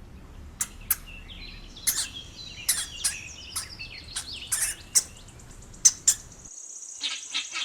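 Hamster squeaking in short high-pitched chirps, with sharp clicks among them. About six and a half seconds in it cuts to a fast, high-pitched trill.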